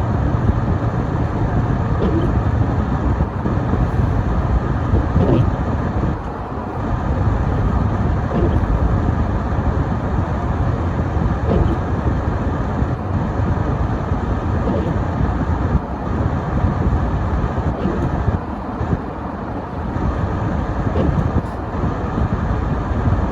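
Car driving on a snow-covered road: steady engine and tyre noise.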